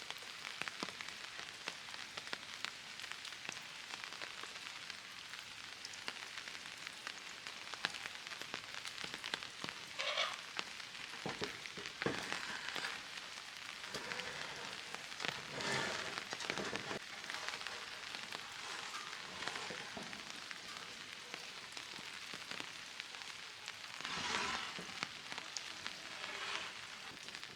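Steady rain pattering on surfaces, a dense crackle of drops, with a few brief louder rushes.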